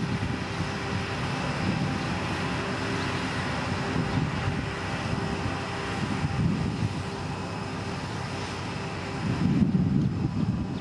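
Motor grader's heavy diesel engine running steadily, a low rumble that swells near the end.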